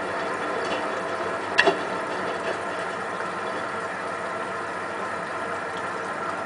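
Hotpoint WT960 washing machine running, its motor giving a steady hum, with one sharp knock about a second and a half in.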